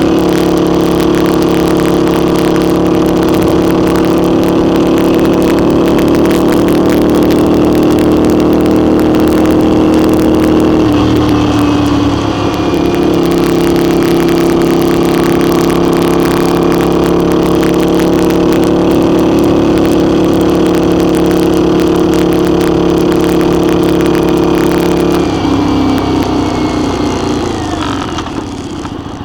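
Motorcycle engine running at a steady cruising speed, with wind and road noise. About eleven seconds in the engine note dips briefly and comes back, and near the end it falls in pitch and quietens as the bike slows.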